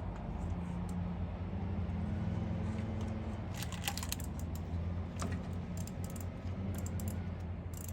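Hand tools clicking and clattering on metal, with a short run of clicks about three and a half seconds in, over a steady low hum.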